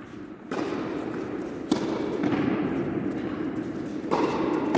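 Tennis ball struck by rackets: a few sharp knocks, about a second apart and then after a longer gap, over steady background noise.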